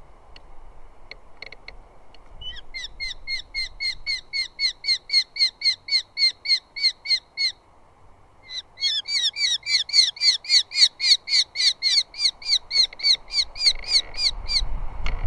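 Eurasian hobby giving a rapid series of repeated sharp call notes, about four a second, in two long runs with a short break between them. A low rumble comes in near the end.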